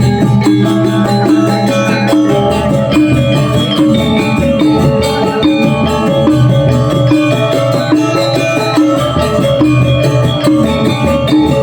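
Balinese gong kebyar gamelan playing a tabuh alus (refined-style) piece: bronze metallophones ringing in dense interlocking patterns over a steady low gong and drum layer.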